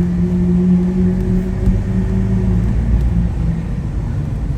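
Lamborghini Aventador SV's V12 engine running with a Capristo exhaust, a steady drone that breaks up into a rougher low rumble about two and a half seconds in.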